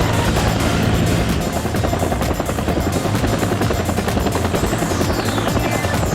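Military helicopter running loud and steady with rapid rotor chop, its high turbine whine falling in pitch near the end as it passes.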